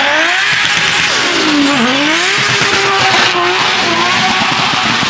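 A car engine revving hard under acceleration. Its pitch drops sharply at a gear change a little under two seconds in, then climbs again.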